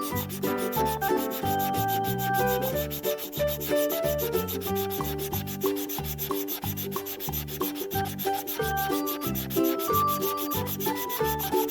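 Fast, continuous scratchy rubbing of colouring strokes as a picture is coloured in. Under it runs light background music with a bouncing, repeating bass line.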